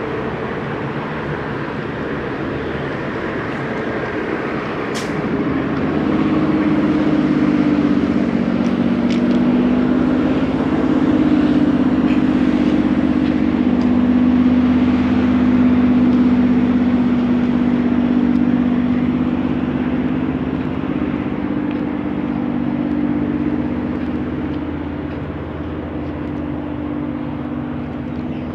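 Diesel locomotive engine running with a steady hum that grows louder about five seconds in, holds, then eases off toward the end.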